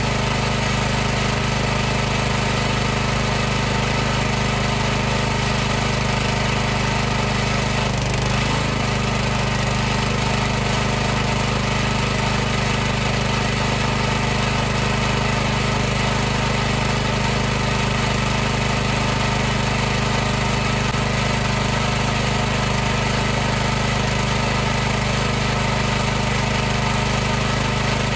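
High-pressure washer running steadily with a constant machine hum and hiss, with a brief dip in pitch about eight seconds in.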